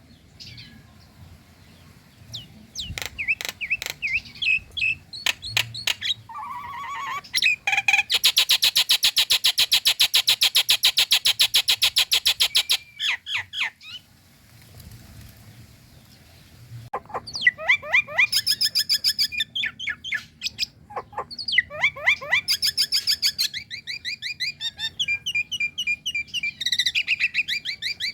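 Nias hill myna (female) calling: sharp calls and short whistles, then a long, fast, even rattling run of notes lasting about five seconds. After a brief pause come dense runs of whistled, gliding notes.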